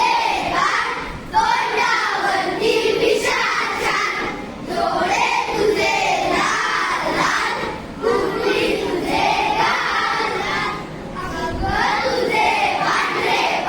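A group of children singing and shouting together in loud, repeated chant-like phrases.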